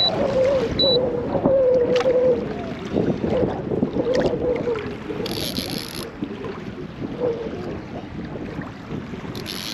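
Kayak on rough water: steady wash of waves against the hull and wind, with a wavering whine in the first couple of seconds and two short hissing bursts about five and nine and a half seconds in.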